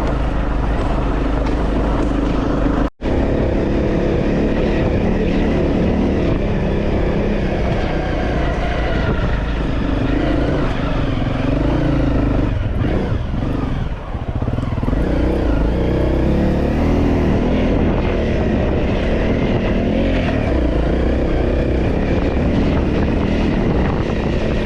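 Motorcycle engine running steadily as the bike rides a rough jungle dirt trail, its note wavering with the throttle and a small dip about midway. The sound cuts out for an instant about three seconds in.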